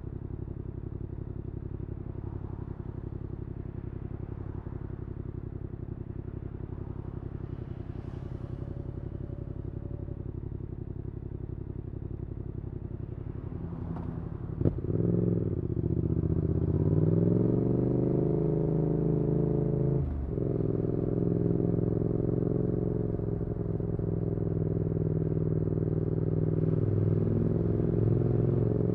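Yamaha XSR700's 689 cc parallel-twin engine through an aftermarket IXRACE MKII exhaust, running steadily at low revs. About halfway there is a sharp crack and the engine gets louder, rising in pitch as the bike accelerates, drops at a gearshift about two-thirds in, then runs on steadily at the higher level.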